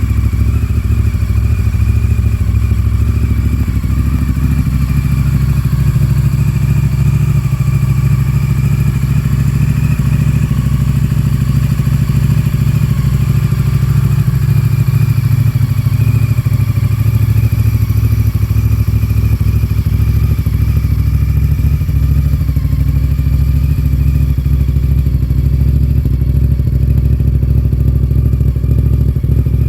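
Honda VTR 1000's 90-degree V-twin running steadily through an aftermarket Yoshimura exhaust, a deep even rumble with no revving.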